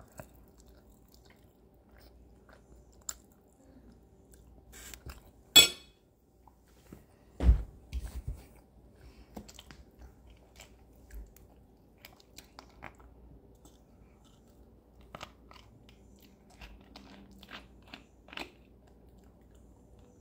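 Faint chewing and biting sounds of someone eating turkey and eggs, with scattered small clicks. A sharp click comes about five and a half seconds in, and a louder thump follows about two seconds later.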